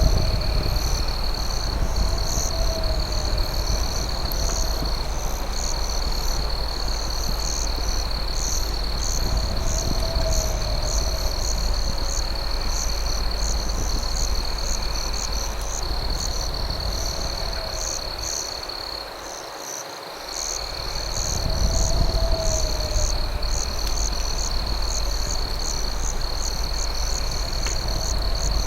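Night insect chorus of crickets: a steady high trill with faster pulsed chirps above it. A lower wavering call recurs every several seconds. A low rumble underneath dips away briefly about two-thirds of the way through.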